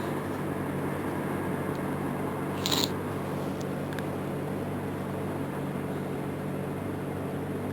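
Steady background noise of riding through city streets, with a low hum underneath and one short sharp click about two and a half seconds in.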